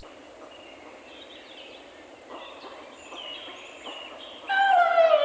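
Animal calls over a faint background: many short high chirps, then near the end a louder, longer call that falls slowly in pitch.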